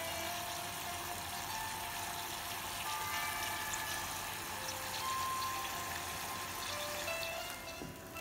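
Mushrooms sizzling in a pot of hot cooking liquid: a steady frying hiss with fine crackle that cuts off near the end. Soft background music of slow held notes plays underneath.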